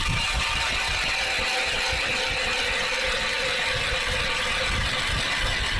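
Ice auger boring through thick lake ice: a steady mechanical grinding with faint steady tones at an even level.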